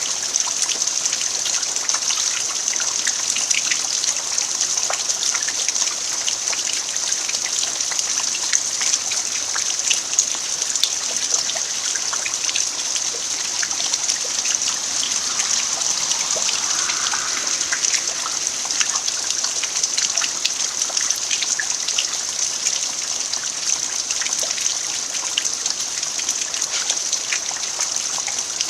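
Steady rain falling on an earthen yard: an even hiss with many separate drop hits.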